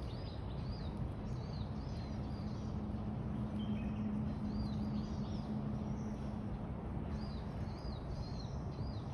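Birds calling: short arched chirps repeated in quick runs, over a steady outdoor rumble. A low hum swells in the middle and fades.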